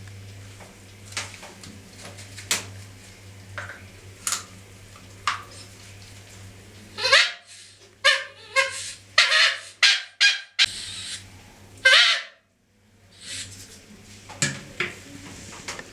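A cleaned bicycle horn honking in a quick series of about seven or eight short, loud blasts, each with a slight slide in pitch. Light handling clicks and taps come before and after the honks.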